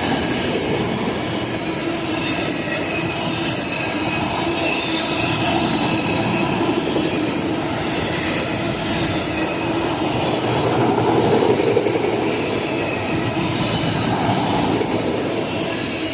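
Freight train cars rolling past: a steady rumble of wheels on the rails, with clatter over the rail joints and a thin wheel squeal.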